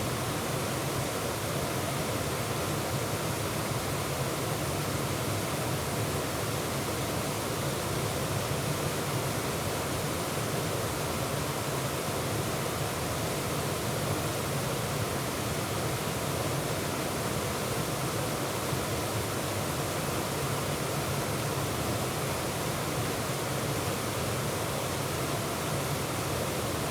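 Waterfall heard from close by, in the middle of the falls, rushing steadily: an even, unbroken noise of falling water.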